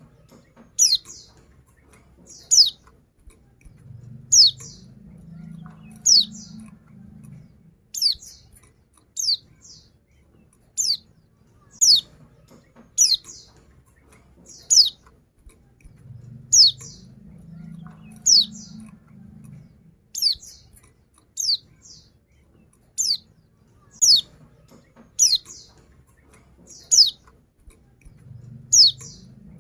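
Female white-eye (pleci) calling: short, sharp, falling chirps repeated about every one to two seconds. Used as a lure call to set male white-eyes singing.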